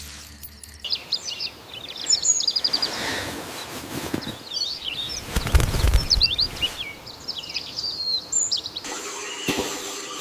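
Several birds chirping in quick, high calls over a steady hiss, with a low rumble about halfway through.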